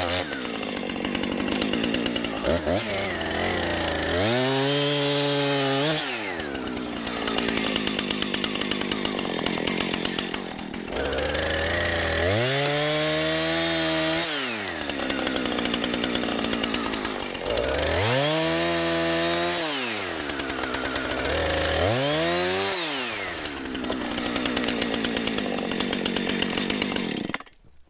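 Husqvarna 455 Rancher two-stroke chainsaw cutting through a tree trunk to fell it, running steadily with its pitch rising and falling back four times. It cuts off suddenly near the end.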